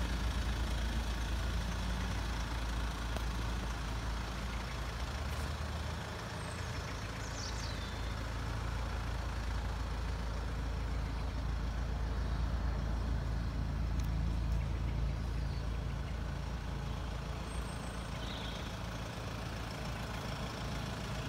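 Mercedes-Benz E220 CDI's four-cylinder diesel engine idling steadily with a low rumble.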